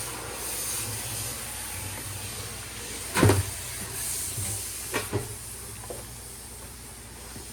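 Water hissing steadily, with a loud clunk about three seconds in and two lighter knocks around five seconds.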